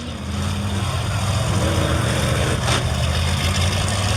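A large vehicle engine idling steadily, with a brief hiss of air about two and a half seconds in.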